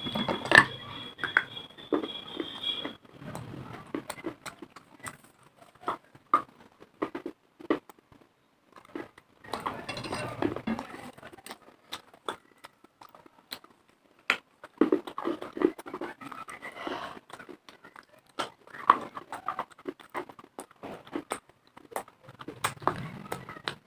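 Close-up crunching and chewing of dry clay and khadiya chalk: sharp crackling bites with mouth sounds between them, in several clusters separated by short pauses. A faint high steady tone sounds during the first three seconds.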